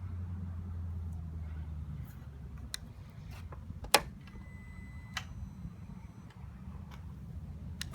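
Clicks and a low hum from a 2017 Harley-Davidson Softail Slim S being readied to start, before the engine turns over. A sharp click about four seconds in is followed by a brief steady high tone lasting about a second.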